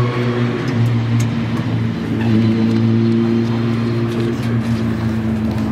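Renault Clio V6 Cup race car's V6 engine idling steadily, its pitch nearly constant with a brief dip about two seconds in.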